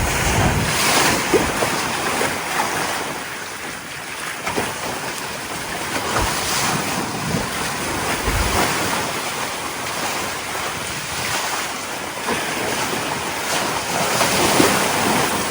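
Wind rushing over the microphone and waves washing around a sailboat at sea, with a couple of brief low buffets of wind on the mic.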